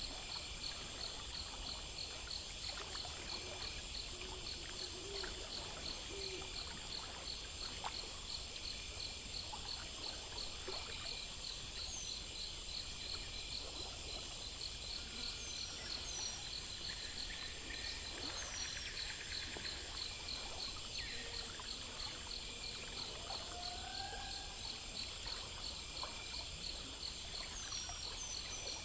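Insect chorus trilling steadily at a high pitch, with a faint flow of stream water underneath. A few short gliding calls come through now and then.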